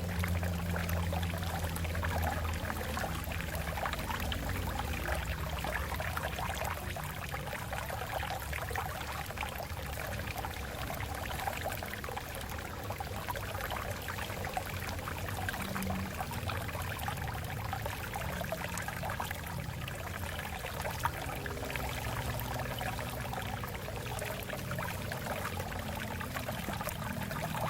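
Water flowing over rocks, a steady rushing and trickling with a low rumble underneath.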